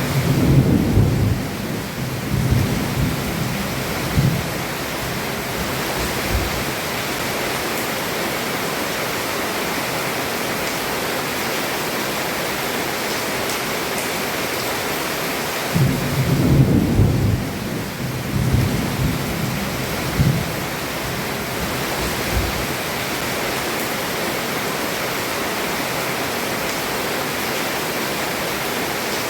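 Heavy rain falling steadily on a roof, with thunder rumbling twice: once at the start and again about halfway through, each roll lasting about four seconds.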